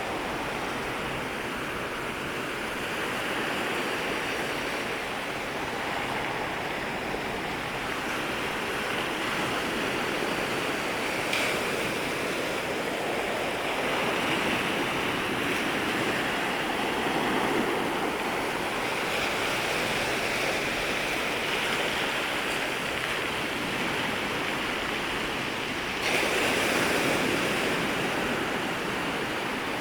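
Waves breaking and washing at the water's edge: a continuous rushing surf that swells and eases, with a louder surge near the end.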